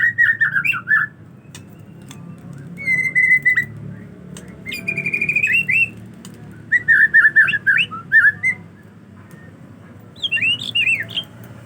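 Male white-rumped shama singing: about five short bursts of rapid whistled notes with gaps between them, the last phrase sweeping higher.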